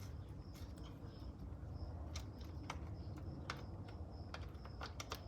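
Scattered light clicks and taps of a bicycle rear wheel and chain being worked into the frame, over a low steady rumble and a faint high chirp that repeats in short dashes.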